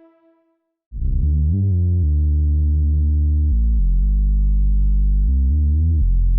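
KORG Triton VSTi factory preset: a low, sustained synth bass starting about a second in, holding long notes that slide up and down in pitch between changes. Just before it, the last note of an electric piano preset dies away into a brief silence.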